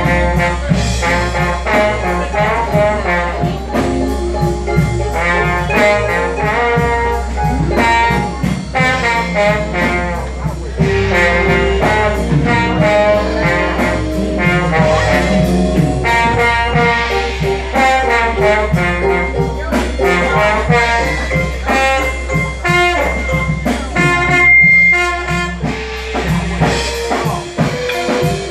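A live band playing a jazz-blues instrumental, with brass horns (trombone and trumpet) carrying the melody over a drum kit and bass.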